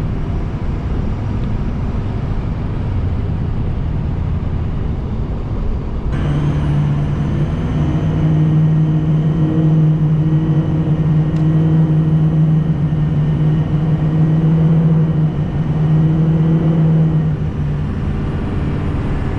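Vehicle engine and road noise while driving. About six seconds in the sound changes abruptly, and a steady engine drone at constant pitch holds over the rumble, then eases off near the end.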